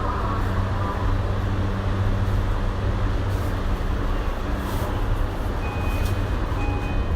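Interior of a Tokyu 2020 series electric commuter train: a steady low hum from the car's onboard equipment. Near the end, a short electronic beep repeats about once a second.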